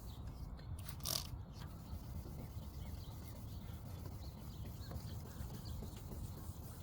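Hand wet sanding of a plastic car headlight lens with folded 2000-grit sandpaper, a soft scratchy rubbing over a steady low rumble, with one short, sharp noisy burst about a second in.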